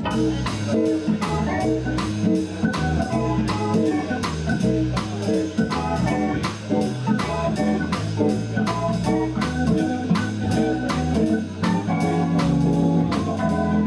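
Small live band playing a swing instrumental: an organ-toned keyboard over guitar, bass guitar and a drum kit keeping a steady beat.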